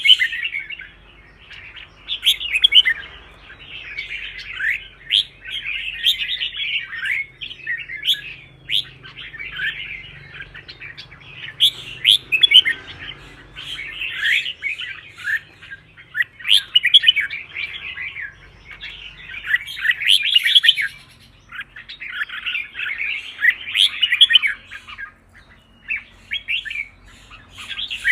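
Red-whiskered bulbul singing: short phrases of quick, sweeping whistled notes, repeated again and again with brief pauses between them.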